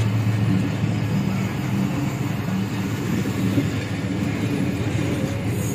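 Diesel-hauled passenger train running on the rails: a steady, continuous rumble of the moving train. A low hum is strong at first and fades about a second in.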